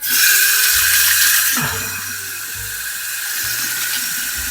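Water tap turned on, water running into a sink, louder for the first second and a half and then steady, with a thin high whine along with the flow.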